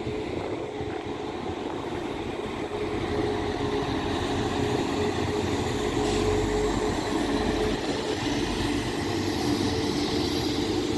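Transport for Wales diesel multiple unit moving slowly along the platform, its engines giving a steady humming note over a rumble of wheels, growing louder over the first few seconds and then holding steady.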